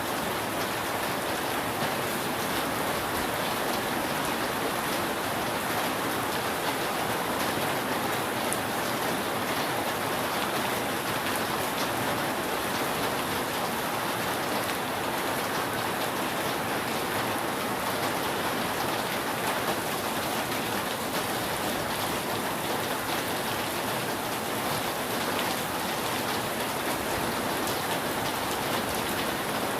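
Steady rain falling on a roof, an even hiss of drops without a break.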